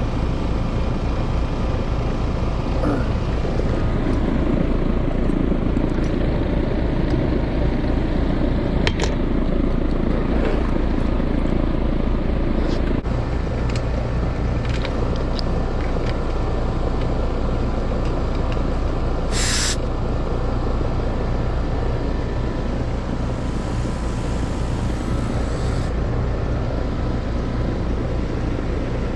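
Heat pump compressor running with a loud, steady hum, which the technician takes for the noise the customer hears. He also says it sounds a little rough and is about to fail. About two-thirds of the way through there is a brief sharp noise over the hum.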